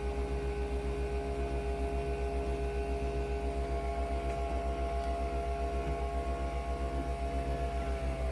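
A machine's steady hum, with a low throb that pulses about seven times a second under several steady tones; near the end the tones sink slightly in pitch.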